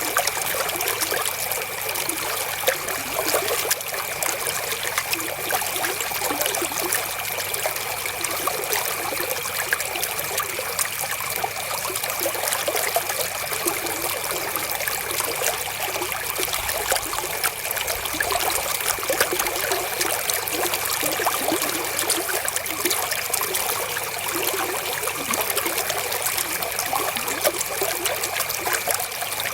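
River water flowing and trickling steadily, with no change over the whole stretch. A faint, steady high tone sits under the water.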